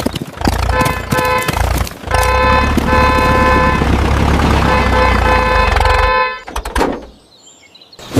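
Vehicle horn honking, a short blast and then one long held blast, over the low rumble of an engine.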